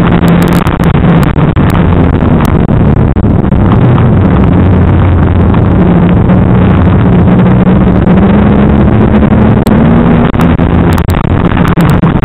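Banger racing car's engine running hard, heard from inside the cabin, loud and rough, its pitch rising and falling as the throttle is worked around the oval.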